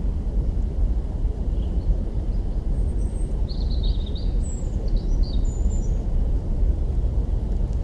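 Wood campfire burning with a dense, steady crackle, and a bird chirping several short high calls over it in the middle.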